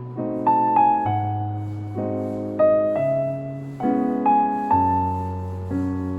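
Soft background piano music: gentle chords and single notes struck and left to ring, a few each second.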